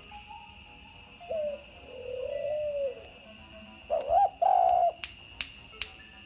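Spotted dove cooing: three coo phrases, the middle one longer and lower, the last and loudest about four seconds in. Then a quick run of sharp finger snaps, about two and a half a second, to set the bird calling.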